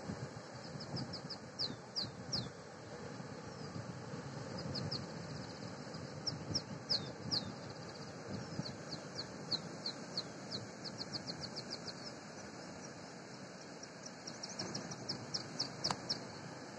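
A small songbird singing: runs of short, high, falling chirps, several a second, in bouts. Beneath it is a steady rushing haze of surf breaking on the beach below.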